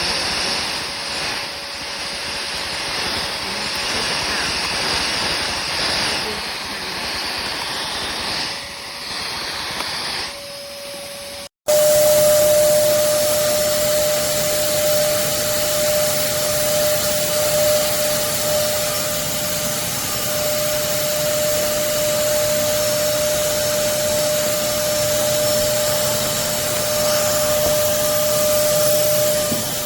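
Hoover Commercial PortaPower CH30000 canister vacuum running: a steady motor whine over a rushing suction noise. About a third of the way in, the sound cuts out for an instant and comes back louder, with the whine steadier and clearer.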